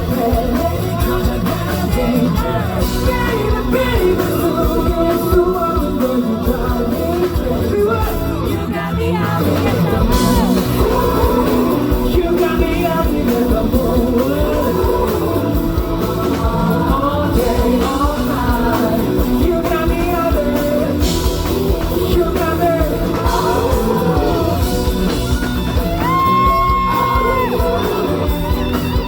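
Live concert performance of a pop-rock song: a male lead vocal singing over loud full-band backing.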